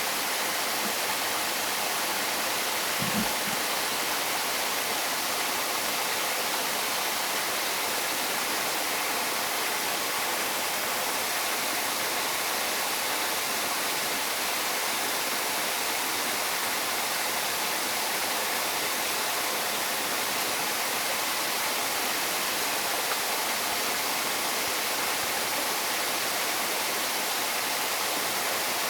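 Steady, even rush of running water, with a brief low thump about three seconds in.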